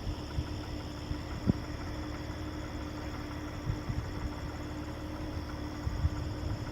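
Crickets chirring steadily over the low, steady hum and rumble of an idling vehicle, with a sharp knock about a second and a half in.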